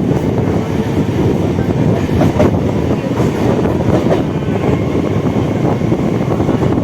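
Suburban electric local train heard from on board, running along the track: a steady rumble of wheels on rail with a few faint clicks.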